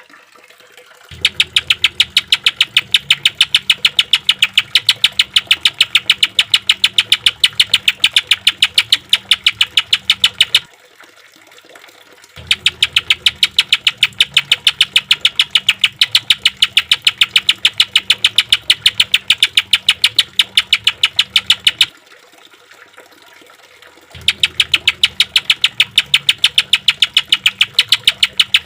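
Greater green leafbird (cucak ijo) giving harsh, rapid-fire 'tembakan' rattles: fast, evenly repeated notes in three long bouts of about ten seconds each, separated by short pauses of about two seconds.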